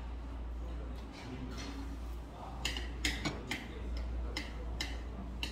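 Close-up eating sounds: wet chewing and lip smacks in a steady rhythm, about two to three a second, louder from about halfway through.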